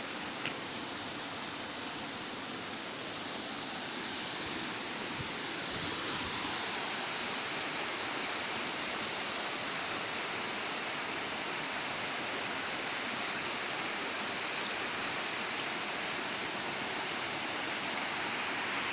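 Waterfall: a steady rush of falling water, with one brief click about half a second in.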